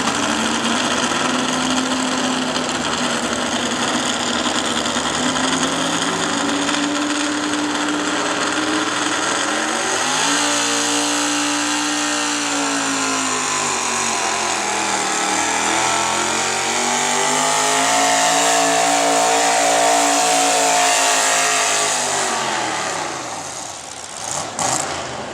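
Altered-stock 4x4 gas pickup's engine at full throttle pulling a sled. The revs climb, dip about halfway through, climb again, then drop off near the end as the pull finishes.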